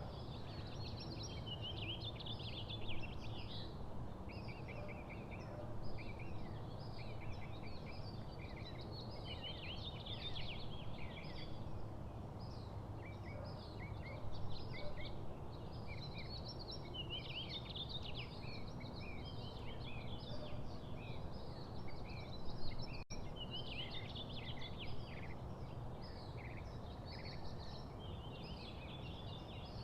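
Several small songbirds chirping and singing all the time, their short calls overlapping, over a steady low background rumble.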